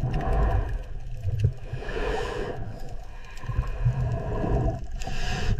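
Dolphin vocalizing: a drawn-out, wavering call over a low rumble, with a short hiss near the end.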